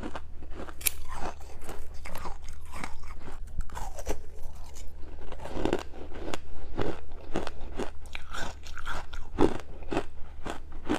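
Close-up chewing of freezer frost soaked in passionfruit juice: dense, irregular wet crunches, several a second.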